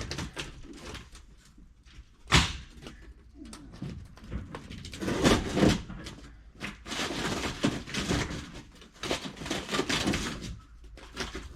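Scattered knocks, clatter and scraping of building materials being handled during mobile home repair work, with one sharp knock about two seconds in.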